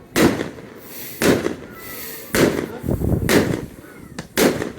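Fireworks display: aerial shells bursting in a quick series of loud bangs, about one a second, two of them close together near the middle and again near the end, each trailing off briefly.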